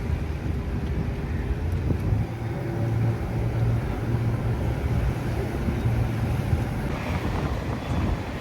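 A motor engine running steadily, its low hum shifting pitch a little a few times, with wind rushing over the microphone.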